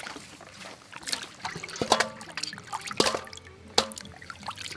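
Water splashing and trickling, with several sharp clicks and knocks scattered through it.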